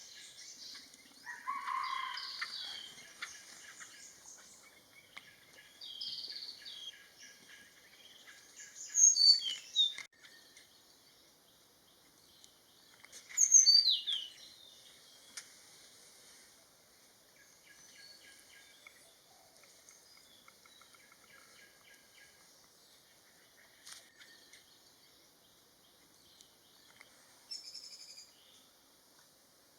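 Forest birds calling: a scatter of high chirps, including two loud sharp calls that sweep down in pitch about 9 and 13 seconds in. Beneath them runs a faint chatter of rapid repeated pulses.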